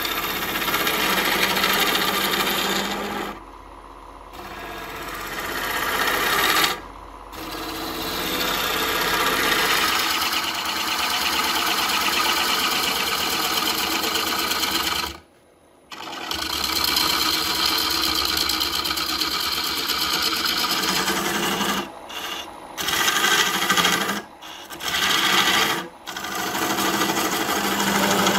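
Wood lathe spinning a burl while a hand tool works the turning wood, a steady scraping mechanical noise. It drops out suddenly several times and resumes.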